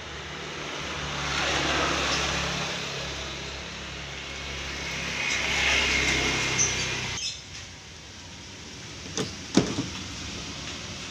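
Road vehicle noise: a steady low engine hum with two swells of broad noise that rise and fall like vehicles passing. It stops abruptly about seven seconds in, and two sharp clicks follow near the end.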